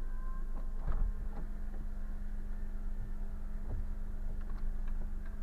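Car interior noise picked up by a dashboard camera: a steady low hum and rumble, with a few light knocks.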